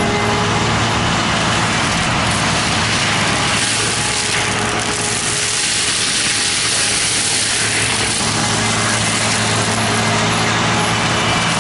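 A heavy machine's engine running steadily, with a constant loud noise over it.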